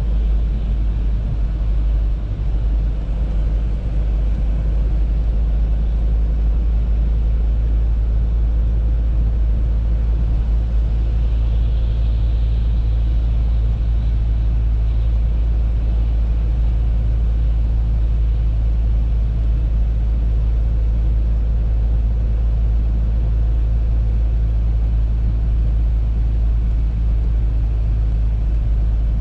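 Steady low rumble of road and engine noise from an Audi A3 driving along, heard inside the car.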